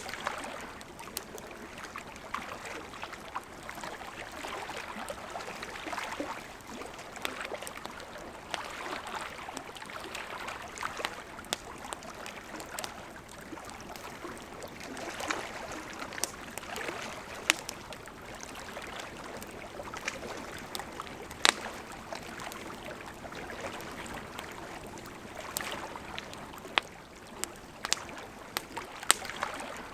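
Wood campfire crackling, with frequent sharp pops and snaps, over the steady rush of a gently flowing river.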